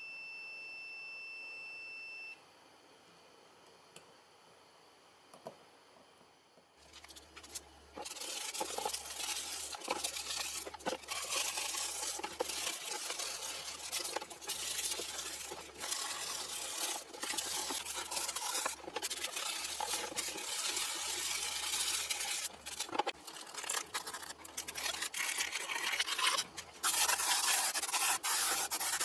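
A steady electronic beep for about two seconds. After a few seconds of quiet, continuous rough scraping and rubbing noise with frequent clicks, loudest near the end.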